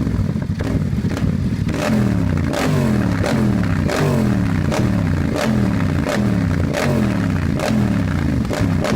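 Sportbike engine with an aftermarket exhaust, running, then from about two seconds in being revved in quick throttle blips about twice a second, each rev jumping up sharply and falling away.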